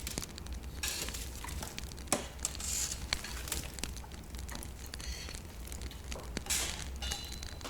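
Wood fire in a fireplace crackling, with irregular sharp snaps and short hissing flares over a faint low hum.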